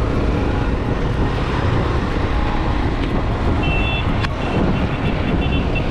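Honda Unicorn single-cylinder motorcycle riding along, steady engine and wind noise. From a bit past halfway, a rapid series of short, high electronic beeps, with a sharp click about four seconds in.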